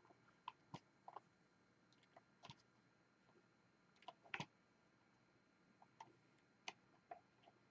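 Small plastic clicks and taps of diamond painting, as a drill pen picks up resin drills and presses them onto the sticky canvas. The clicks come irregularly, one or two a second, with a louder cluster about four seconds in.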